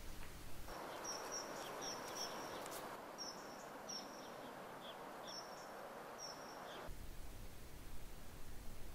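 Outdoor ambience: a steady hiss of background noise with a bird chirping several times in short high notes. It begins under a second in and cuts off suddenly at about seven seconds, leaving quiet room tone.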